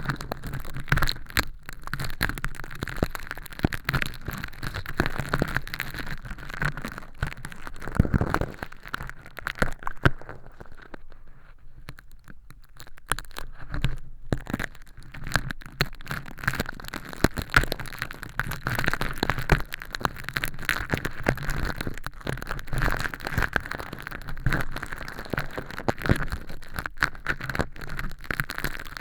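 Close-miked, crisp crackling and scraping of crinkly holographic film, used as fake earwax, being picked and peeled off with tweezers inside a silicone ear model. The crackles come thick and fast, easing off briefly a little past the middle.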